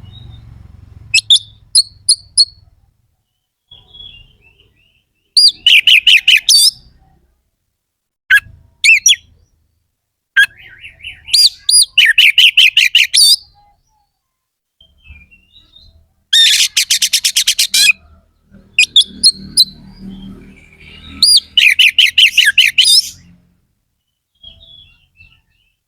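Oriental magpie-robin (kacer) singing in loud phrases of rapid, repeated harsh notes, broken by short pauses. About two-thirds of the way in comes a fast, even run of about ten notes a second.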